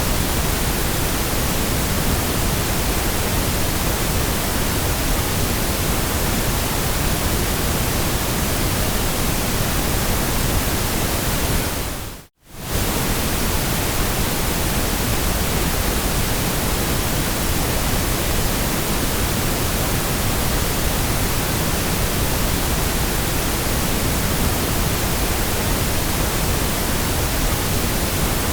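Steady synthetic pink noise, an even hiss across all pitches with a little more weight in the low end. About twelve seconds in it fades to silence and back within about a second.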